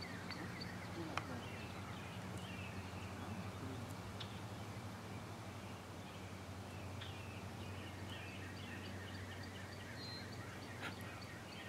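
Faint outdoor birdsong: scattered short chirps and a repeated high, ticking call, over a steady low hum.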